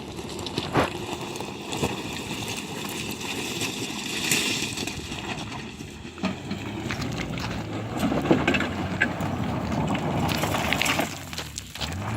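2007 Suzuki Escudo on all-terrain tyres driving off-road, its engine running under a steady haze of tyre noise, with scattered knocks.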